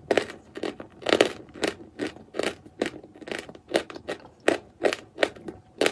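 Chalk being chewed with the mouth closed: a steady run of crisp crunches, about two to three a second.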